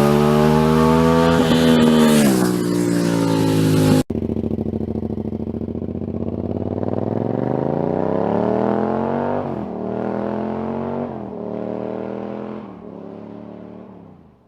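Yamaha MT-07 parallel-twin engine through an aftermarket exhaust, accelerating hard with its pitch climbing. The sound cuts abruptly about four seconds in to a second run, where the engine pulls up through the gears with three quick drops in pitch at the upshifts and fades away near the end as the bike rides off.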